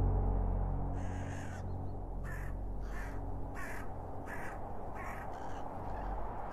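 A bird giving six harsh, short calls in a row, about two-thirds of a second apart, over the low hum of music fading out.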